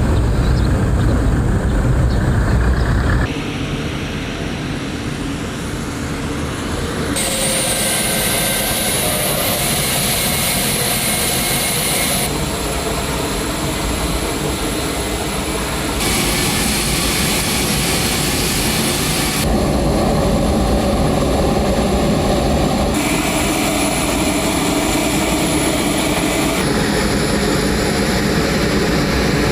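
Four-engine turboprop aircraft, a C-130J Super Hercules, with its engines and propellers running steadily. The sound changes abruptly every few seconds, as spliced clips shift between deeper engine noise and a higher propeller whine.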